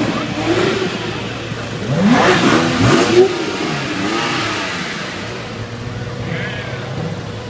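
Car engine revved in a series of blips, its pitch rising and falling each time. The revs are loudest about two to three seconds in.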